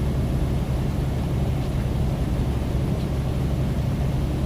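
Semi truck's engine and road noise heard inside the cab at a steady highway speed, a constant low drone.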